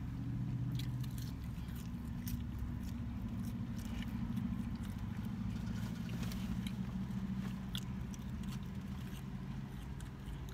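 Wet chewing and small mouth clicks from eating French fries, over the steady low hum of a car engine idling.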